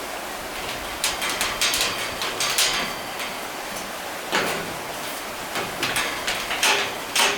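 Irregular knocks and scrapes, like materials being handled and struck during manual work, over the steady rush of flowing water.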